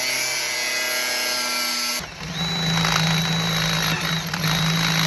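A power tool's motor running at a steady pitch. About two seconds in it cuts abruptly to a second steady run with a lower hum and a thin high whine.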